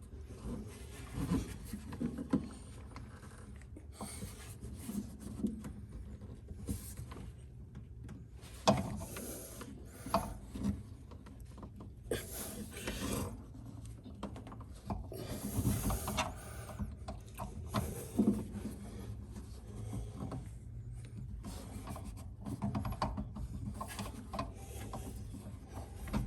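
Hand work on a fuel line and its fittings: intermittent rubbing, scraping and light knocks of tubing and tools on metal, with one sharp knock about nine seconds in, over a faint steady low hum.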